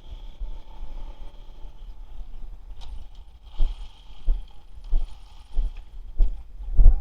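A 1/10 scale brushless RC truck running over rough ground: low rumbling and a series of thumps, about one every half second or so in the second half and loudest near the end.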